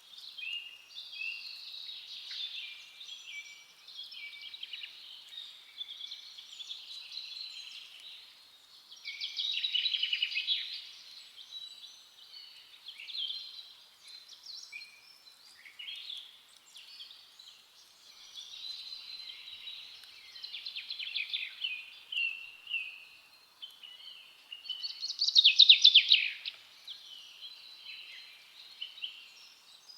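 Forest songbirds singing and chirping without a break, several calls overlapping. There are louder rapid trills about ten seconds in and again near the end.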